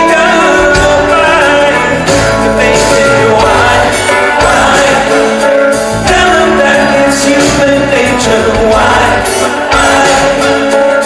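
Rock band playing live, with sung vocals over the band.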